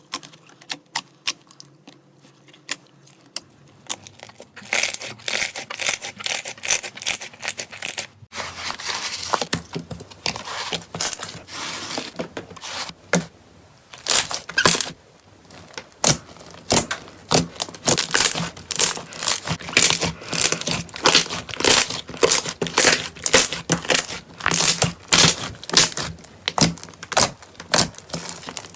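Slime being squeezed and worked by hand, giving a dense run of sharp crackling pops and clicks. The sound changes abruptly about eight seconds in and grows busier and louder afterwards.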